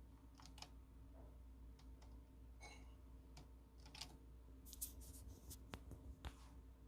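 Faint, irregular clicks and light taps, most frequent about five seconds in, over near-silent room tone, with one brief high squeak just under three seconds in.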